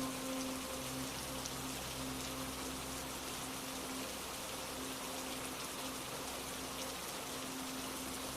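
Steady rain falling, an even hiss of many drops with no pauses. A faint low steady hum runs underneath.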